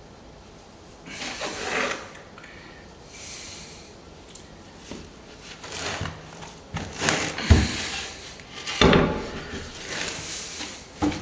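Irregular scraping and knocking of hand work with plaster and tools, with heavier knocks about halfway through and again soon after.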